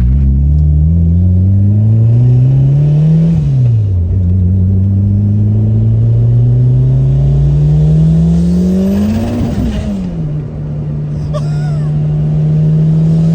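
Big-single-turbo Eagle Talon TSi's turbocharged four-cylinder engine accelerating hard at about half throttle: the revs climb, fall at a gear change about three seconds in, climb again, and fall at a second shift around nine seconds in before pulling on.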